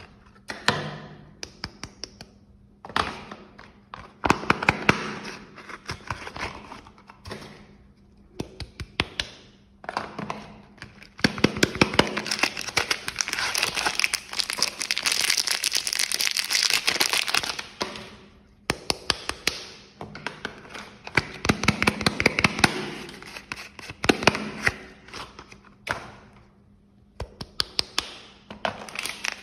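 Soap packaging crinkling and tearing as soap bars are unwrapped by hand. It comes in repeated bursts of rustling dense with sharp crackles, with short pauses between them.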